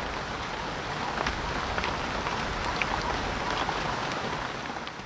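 Steady rain falling, with scattered individual drops pattering close by, fading out near the end.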